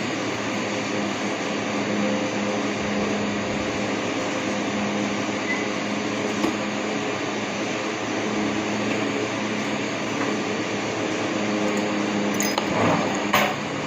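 A steady machine whir with a low, constant hum, like an electric motor running, and a few short clicks and knocks near the end.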